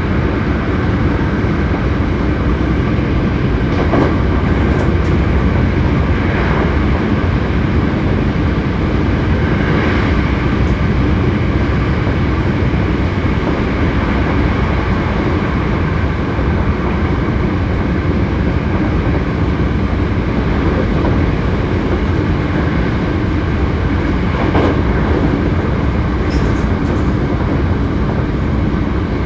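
Hankyu 7300 series electric train running at a steady speed, heard on board: a continuous rumble of wheels on rail with faint rail-joint clicks every several seconds.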